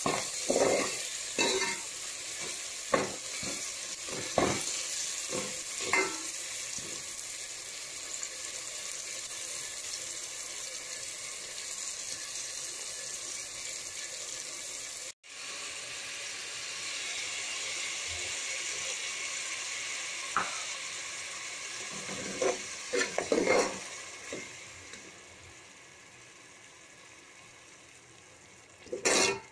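Mixed vegetables frying in oil with a steady sizzle, while a metal ladle scrapes and knocks against the pot several times in the first few seconds and again about two-thirds of the way through. The sizzle drops out for a moment about halfway and dies down near the end.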